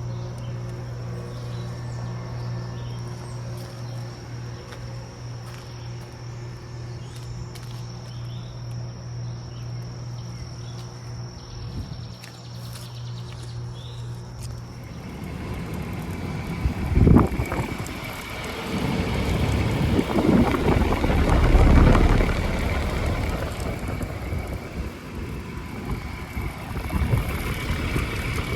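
Central air conditioner outdoor units running: a steady low compressor hum for about the first half, then, after a change about halfway through, a louder rushing fan sound with a thin steady whine and uneven gusts.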